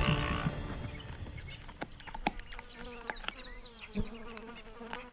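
An insect buzzing with a steady hum, with short falling high-pitched chirps and scattered clicks; music fades out at the very start.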